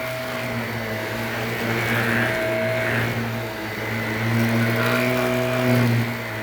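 Shark Navigator upright vacuum cleaner running on carpet: a steady motor drone and airflow hiss that swells louder twice as the vacuum is worked back and forth.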